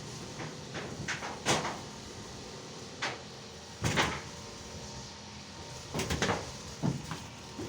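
Irregular knocks and clatters, about seven of them at uneven spacing and the loudest near the middle, over a steady low machine hum.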